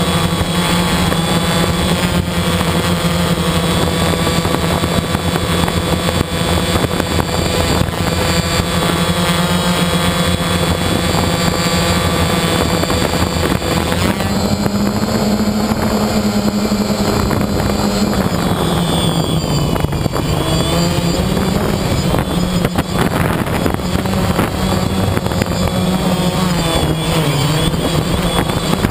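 Quadcopter's electric motors and propellers buzzing steadily. About halfway through the pitch rises, then drops back and wavers up and down.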